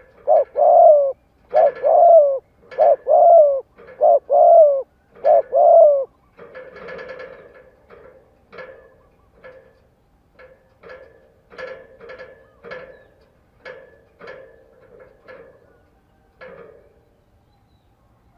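Spotted dove cooing: a run of loud, repeated coo notes for about the first six seconds, then softer, shorter notes scattered through the rest.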